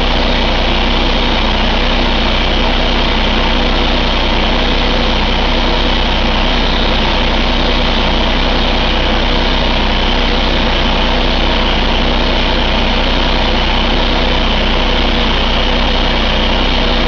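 Cummins ISX15 15-litre inline-six diesel engine idling steadily.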